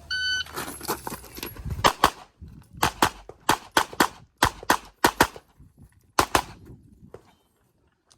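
Shot timer's electronic start beep, then rapid handgun shots, mostly in quick pairs with short pauses between groups, as a competitor shoots a USPSA stage. The shooting stops about six and a half seconds in.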